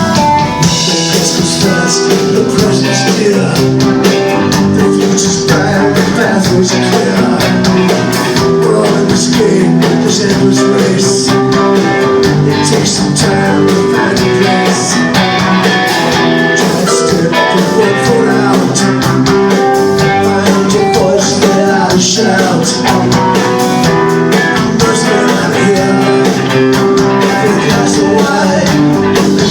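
Live band playing a rock song, with guitar.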